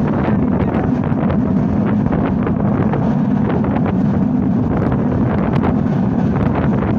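Moving passenger train running steadily, a constant low rumble with wind buffeting the microphone.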